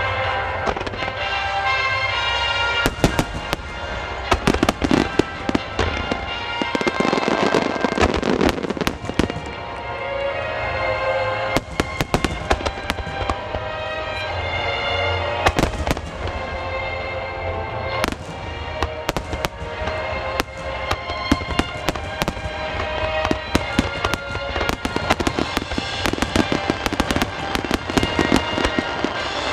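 Aerial fireworks shells bursting in quick succession, sharp bangs and crackles coming in dense flurries throughout, over steadily playing music.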